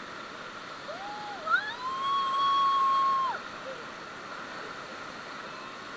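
Steady rushing noise, with one long high-pitched call about a second in that rises, holds one note for about a second and a half, then breaks off.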